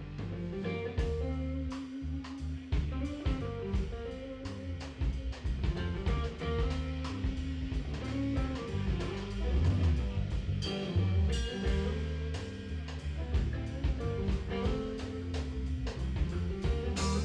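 Live band playing an instrumental passage: electric guitar, bass and drum kit in a jazz-soul groove.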